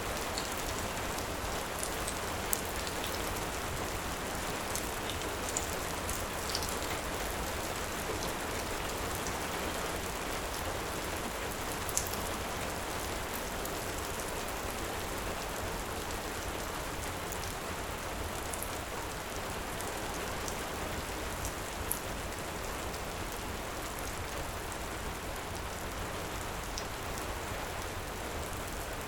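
Steady heavy rain, with a few sharp pops from a crackling wood fire breaking through it.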